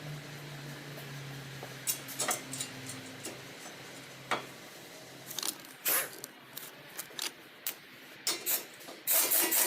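Hand tools working on a car: scattered clicks, clinks and scrapes of metal, with a low hum that fades out about three seconds in. A loud hiss begins near the end.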